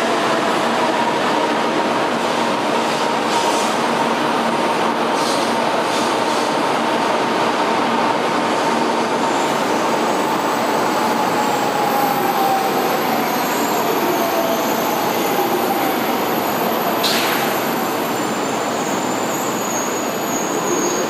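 Kyushu Shinkansen 800 series train slowing to a stop at the platform: a steady rumble with a motor whine that falls slowly in pitch. Faint high squeals join in from about halfway, and there is one short clack about 17 seconds in.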